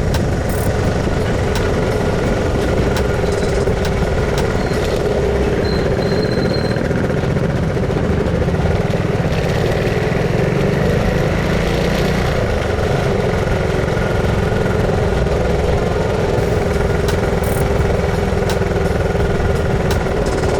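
Motorcycle engine running at a steady pace while riding, under heavy wind rush on the microphone.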